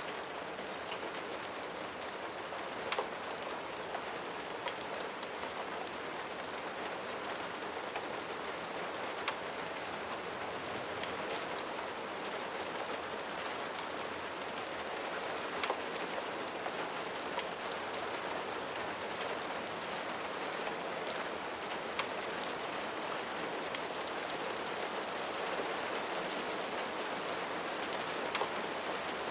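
Steady rain falling on a surface: a dense, even hiss with a few sharper ticks scattered through it.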